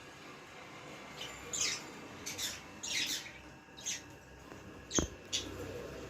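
Budgies giving a quick series of short, harsh squawking chirps, about seven calls, each falling in pitch. A sharp knock about five seconds in.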